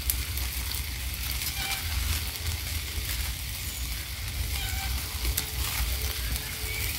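Pork and vegetables frying in a pan over a wood fire: a steady sizzling hiss with scattered crackles over a low rumble.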